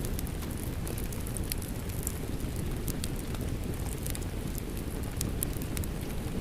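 Crackling wood fire with a steady wash of rain: scattered sharp crackles and pops over a constant low rumbling hiss.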